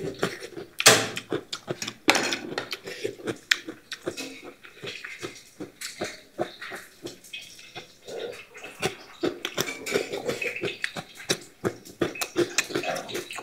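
Close-miked crunchy chewing of raw white radish: many irregular crisp crunches and wet mouth sounds, several a second, with a few light clinks of dishes.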